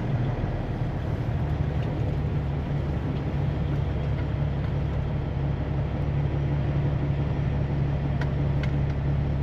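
Semi-truck engine running steadily while driving, a continuous low drone.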